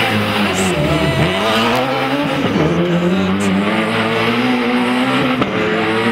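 Rally car engine at high revs. Its pitch drops sharply about a second in and again about two and a half seconds in, climbing back each time as the driver lifts and shifts through the gears.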